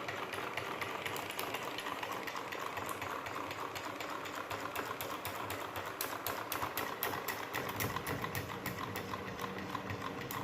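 Homemade V-twin solenoid engine running, its electromagnets pulling the plungers in a rapid, steady clicking clatter. A lower hum grows stronger about three-quarters of the way through.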